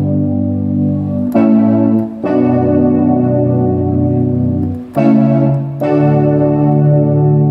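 Yamaha CK61 stage keyboard playing a series of held chords on a sustained patch from its brass and wind sounds, with the chord changing four times.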